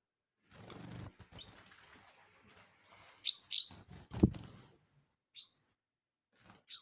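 A small bird chirping: short, high chirps every second or two, the loudest a pair about three seconds in. A dull low thump follows soon after.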